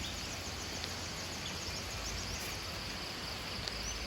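Rural outdoor ambience carried by a steady high-pitched insect drone, with a run of short repeated chirps over it.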